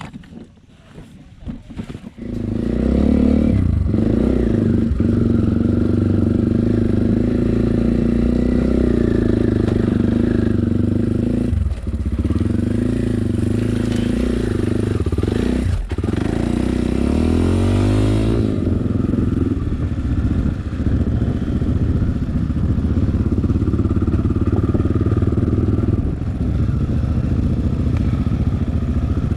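Enduro dirt-bike engine running while riding, loud and steady from about two seconds in, with a few brief dips in revs around the middle.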